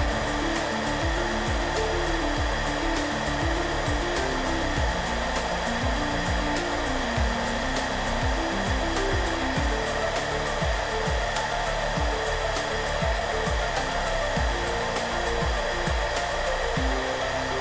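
Hairdryer blowing steadily as a constant even rush of air, with soft background music underneath: a low, slow melody and a regular low beat.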